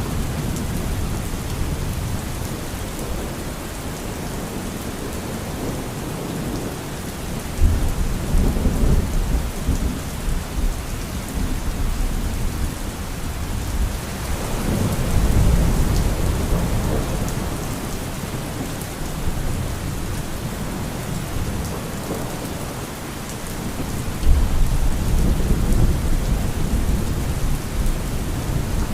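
Steady rain falling with thunder rumbling: a sudden low rumble about 8 seconds in, a slower swelling roll in the middle, and another sudden rumble near the end.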